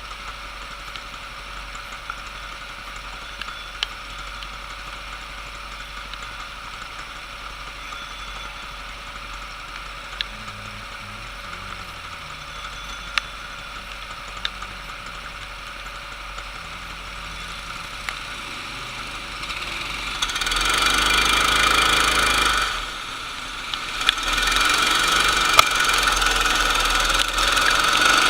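Racing kart engines start up and run loudly after a long quiet stretch that has a few sharp clicks. The engine sound dips for a moment, then picks up again.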